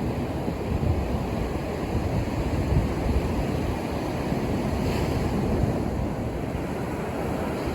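Ocean surf on a beach: a continuous rush of waves, with low rumbling gusts of wind on the microphone in the first few seconds and a brief brighter hiss about five seconds in.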